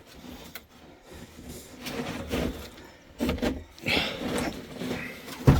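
Irregular scraping and shuffling of a person climbing down a steep rock face on a rope, with a sharp knock near the end.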